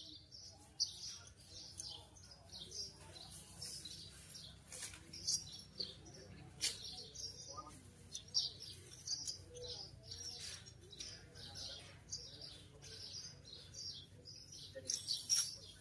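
Small birds chirping in many short, quick calls scattered throughout, over a faint low murmur.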